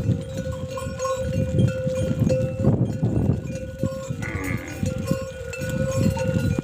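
Bells on grazing livestock clanking and ringing irregularly, with an animal call about four seconds in.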